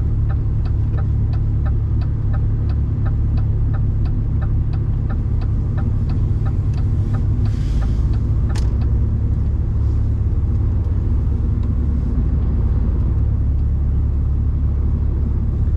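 Truck's diesel engine running steadily, heard as a constant low rumble inside the cab. Over it a regular ticking, about three ticks a second, fades out about halfway, with a short hiss and a single click just before it stops.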